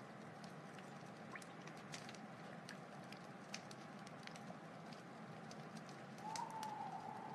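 Wood fire burning, with scattered small crackles and pops over a steady low hiss. Near the end a faint wavering whistle rises.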